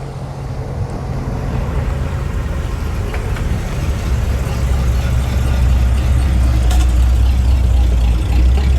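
A car engine running at low speed with a low, steady rumble, growing louder as the car rolls closer.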